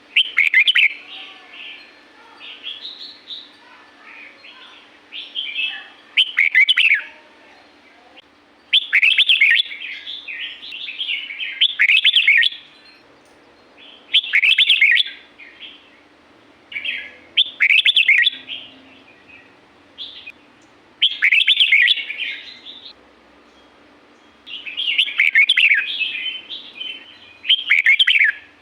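Red-whiskered bulbul singing: short, bright, warbling phrases of quick up-and-down notes, repeated every two to three seconds, with softer calls in between.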